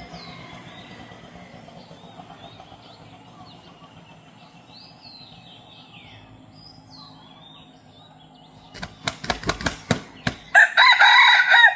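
A decoy rooster beats its wings in a quick run of loud flaps, then crows once, about a second long, near the end. Small birds chirp faintly before.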